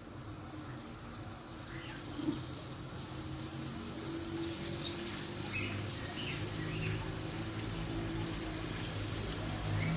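Butter and oil sizzling in a frying pan as it heats for frying fish pieces. The sizzle grows gradually louder, with a low steady hum beneath it.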